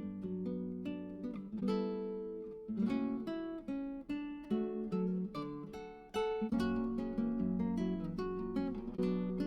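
Background music: acoustic guitar picked and strummed in a gentle, steady rhythm.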